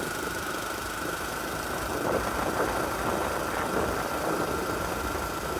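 Dirt bike engine running steadily while riding, with a thin steady whine over continuous road and wind noise.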